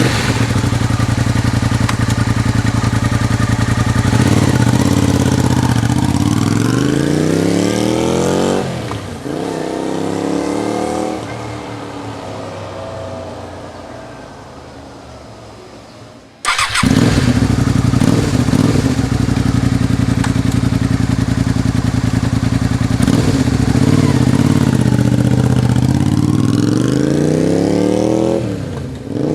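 Honda VTR250 V-twin with an aftermarket Staintune exhaust. It runs steadily close by, then pulls away with the revs climbing, drops in pitch at a gear change about eight seconds in, revs again and fades into the distance. After a sudden cut it runs loud and steady again, then revs up with a gear change near the end.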